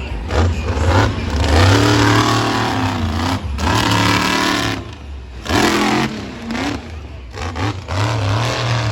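Monster truck engine revving hard, its pitch rising and falling over and over as the throttle is worked.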